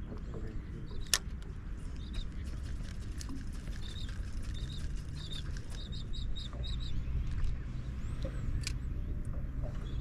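A bird calling in quick series of short, high chirps, in bursts through the second half. Under it runs a low steady hum that sets in about halfway, with two sharp clicks, one about a second in and one near the end.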